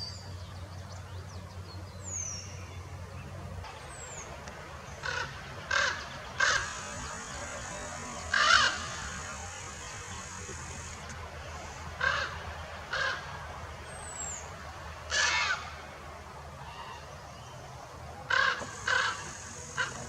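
Crows cawing: short, harsh calls, often in twos or threes, spaced a few seconds apart. A few thin, high, falling chirps from a smaller bird come in between.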